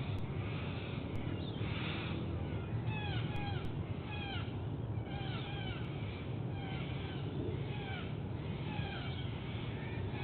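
White-bellied sea eagle chicks giving a run of short, high, downward-sliding chirps, typical of eaglets begging while being fed. A steady low rumble of background noise runs underneath.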